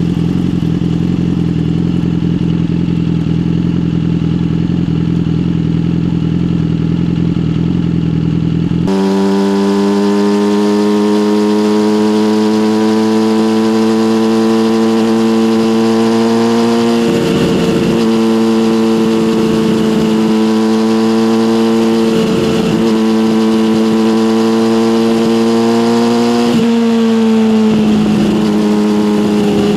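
Yamaha motorcycle with an SC-Project exhaust running. A steady lower engine note switches suddenly, about nine seconds in, to a higher, clearer note that climbs slowly. That note has short breaks about halfway and two-thirds through, and drops near the end.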